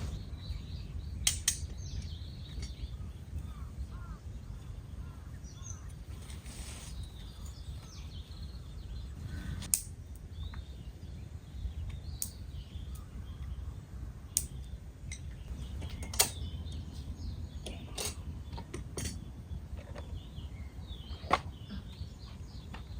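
Campfire of gathered branches crackling, with about ten sharp, irregular pops over a low steady rumble.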